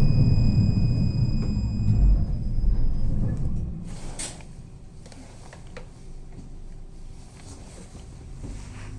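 Tram running, heard from inside the car: a loud low rumble for the first few seconds, then much quieter from about four seconds in, with a sharp click as it quietens.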